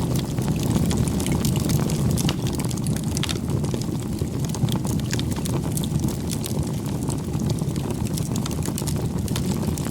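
Wood campfire burning: irregular sharp crackles and pops over a steady low rush of the flames.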